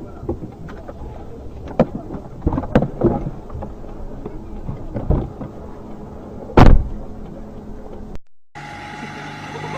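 Vehicle road noise heard through a dashcam, with a scattering of sharp knocks and one loud heavy thump about two-thirds of the way in. After a brief break near the end, a steady engine hum with a few held tones.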